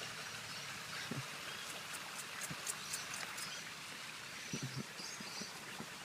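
Outdoor garden ambience with a steady hiss of running water. About two seconds in there is a quick run of faint, sharp high ticks, and a few faint high chirps come later.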